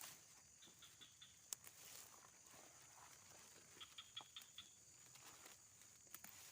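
Faint rustling and crackling of undergrowth and fern stems as wild fern shoots are picked by hand, with scattered small clicks, two short runs of quick high ticks, and a steady high-pitched hum in the background.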